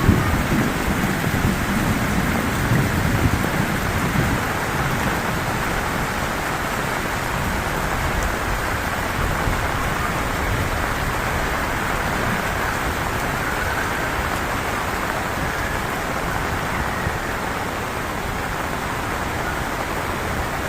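Heavy rain falling steadily, with a low rumble of thunder dying away over the first few seconds.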